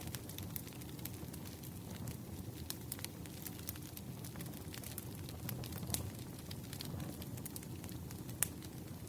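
Wood fire crackling: irregular sharp snaps and pops over a low, steady rumble, with a couple of louder pops near the end.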